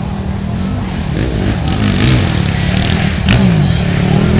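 Racing ATV engines revving as they run past, their pitch rising and falling with the throttle, getting louder toward the end.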